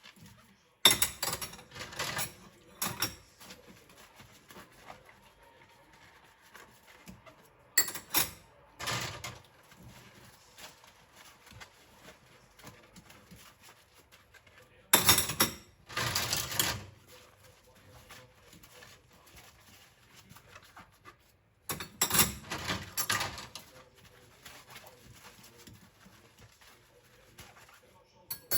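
Sponge scrubbing small bowls and containers in a sink: four bouts of quick scrubbing strokes with quieter pauses between.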